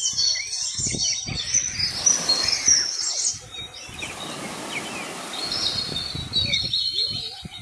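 Many small birds chirping and twittering at once in high, overlapping calls, thinning out about three seconds in and picking up again near the end, over a steady rush of noise.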